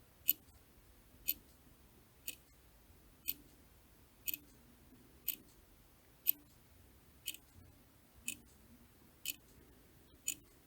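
Clock ticking at a steady one tick per second, each tick a short, crisp, high click.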